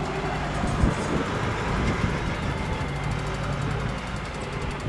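Heavy truck engine running steadily, with road noise and a single sharp knock about a second in.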